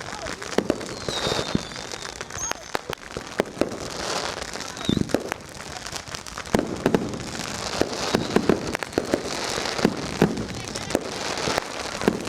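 Dense fireworks and firecrackers going off all around: a constant crackle with many sharp bangs at irregular intervals, and a short falling whistle about a second in.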